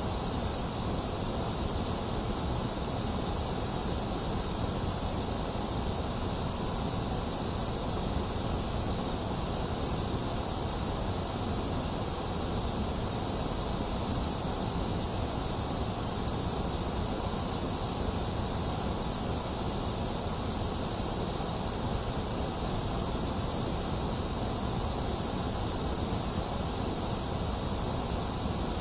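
A box fan running steadily, mixed with rain falling, together making an even, unchanging hiss.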